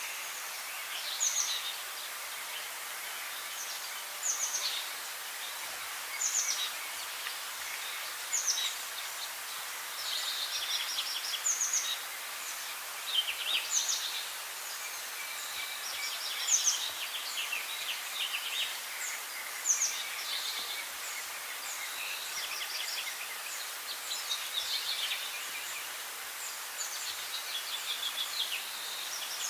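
Songbirds singing in a forest, short high-pitched phrases repeating every second or two over a steady background hiss.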